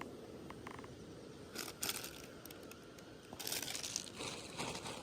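Two bouts of rustling and crinkling, the first about a second and a half in and a longer one from about three and a half seconds, over a steady low background noise.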